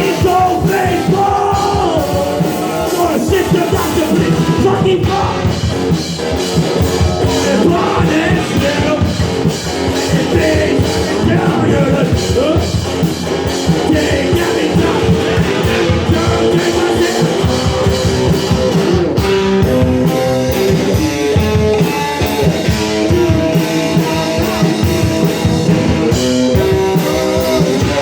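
A rock band playing a song live: electric guitar over a driving drum kit, with a sung vocal line.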